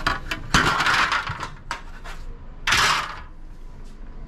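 Clattering, scraping handling noise as a ceiling fan's blades are loosened and taken off, with two longer scrapes about half a second and nearly three seconds in and a few small clicks between them.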